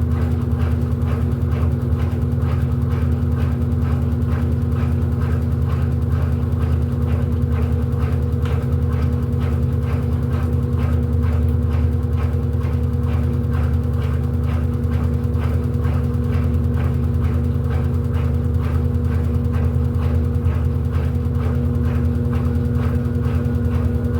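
Electrolux LED14 14 kg washing machine running on its quick programme: a steady motor hum with a faint regular ticking, about two to three ticks a second.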